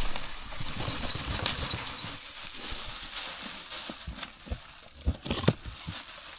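Rustling and scraping handling noise with scattered small clicks as a boxed engine is handled and unpacked, with a couple of sharp knocks about five seconds in.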